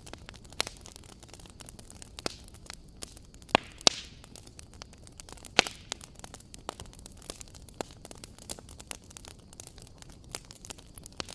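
Wood fire crackling in a fireplace: an irregular run of small snaps over a soft hiss, with a quick pair of loud pops about four seconds in and another a little after.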